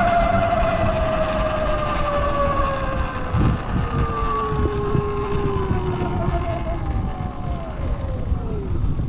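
Segway X160 electric pit bike's motor whine falling steadily in pitch as the bike slows, dropping away just before the end, over a low rumble of wind and tyres.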